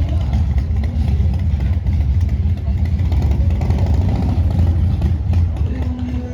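A car engine running with a loud, low, rapidly pulsing rumble, probably a classic car's engine. Steady musical tones come in near the end.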